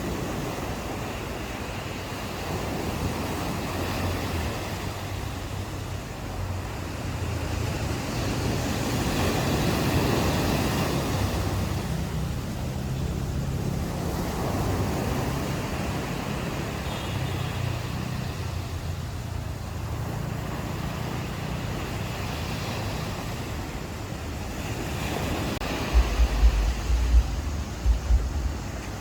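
Ocean waves washing onto a beach, the surf swelling and ebbing in slow surges. Near the end, gusts of wind buffet the microphone in low rumbling bursts.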